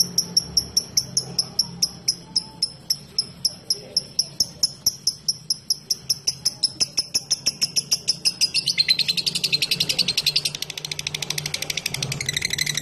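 Lovebird giving sharp, high chirps about five a second in the steady 'ngetik' (typing) pattern, which speed up and, about two-thirds of the way in, run together into a long rapid chattering trill, the 'ngekek', broken off briefly near the end and then resumed.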